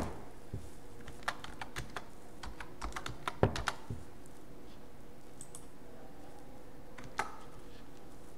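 Typing on a computer keyboard: a sharp click at the start, a quick run of keystrokes over about three seconds, then one more click near the end.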